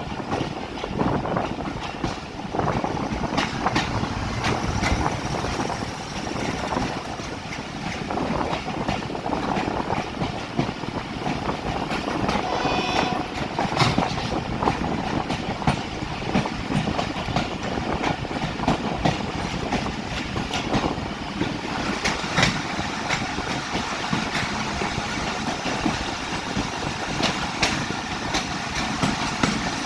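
Pakistan Railways 8DN passenger train running on the rails, its wheels clacking steadily over the rail joints, with a brief high tone about halfway through.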